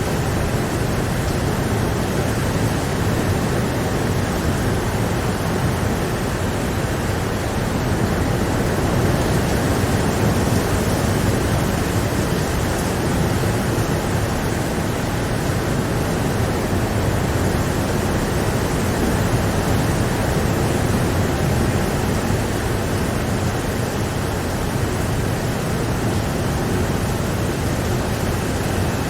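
Steady heavy rain, a constant even rush with no single drops or other events standing out.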